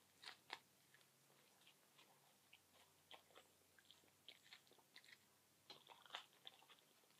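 Faint close-up chewing and biting of a sub sandwich with lettuce and spinach: soft wet mouth clicks and small crunches, a little louder just after the start and again near the end.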